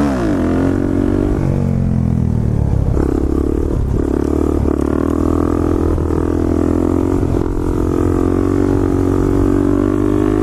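Small 50cc pit bike engine running under way. Its pitch drops over the first couple of seconds, then holds a steady cruising note with a few brief dips.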